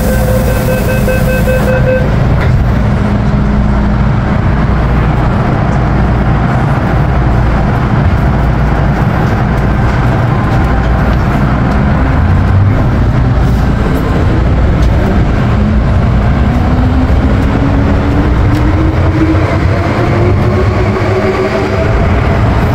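MTR M-Train electric metro train running, with loud wheel and running rumble. A pulsing beep sounds for the first couple of seconds. From about two-thirds of the way in, the traction motors give a steadily rising whine as the train gathers speed.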